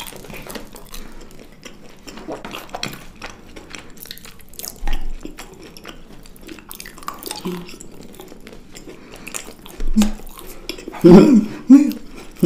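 Close-miked eating sounds: chewing and small wet mouth clicks on chocolate-coated sweets. A few short voice sounds come near the end.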